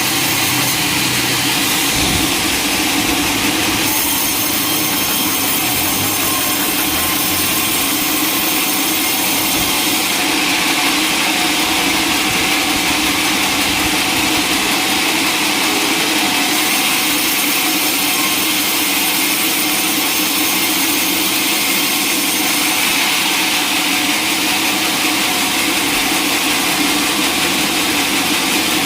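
Sawmill saw cutting through a log: a loud, steady noise from the blade and its motor that runs without a break, with small shifts in the high hiss now and then.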